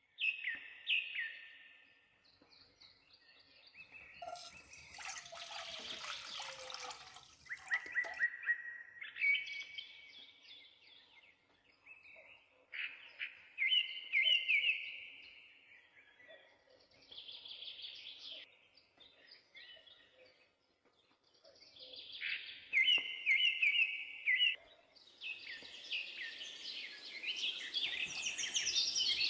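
Small birds chirping in short, repeated trilled phrases every few seconds. A broad hiss comes in briefly about five seconds in and builds again near the end.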